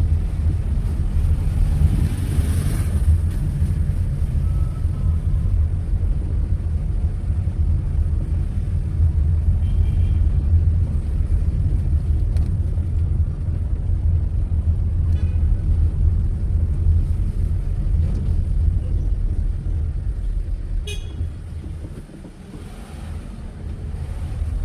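Steady low rumble of a car moving through city traffic, with short car horn toots from the traffic about 10, 15 and 21 seconds in.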